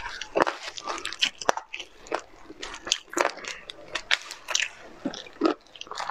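Close-miked eating: wet chewing and lip smacks, with irregular sharp clicks and crackles as cooked meat is torn from the bone by gloved hands.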